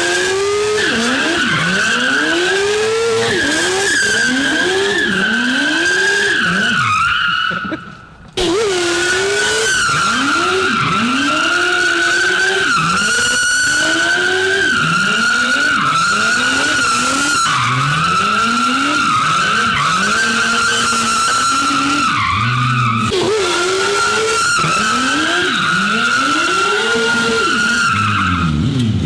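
Yamaha R1 inline-four engine revving over and over, its pitch sweeping up and dropping back about once a second, with a steady high whine underneath. The sound cuts out briefly about eight seconds in.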